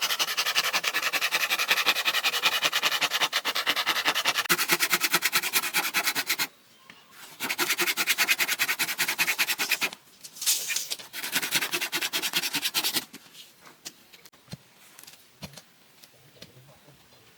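Rapid, even rasping strokes from hand work on bamboo, in three spells that stop about thirteen seconds in, followed by a few faint scattered clicks.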